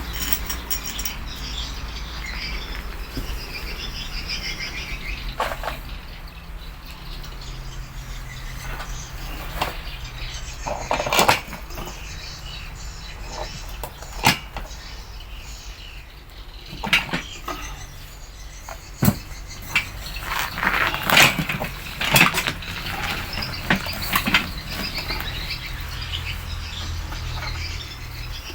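Scattered knocks and clinks over a steady low hum, busier in the second half, with faint chirping in the background.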